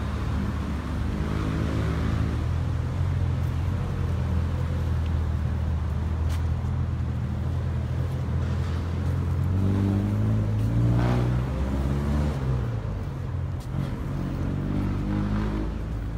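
Motor vehicle engine running steadily on a city street, with the pitch rising as it revs and accelerates about ten seconds in.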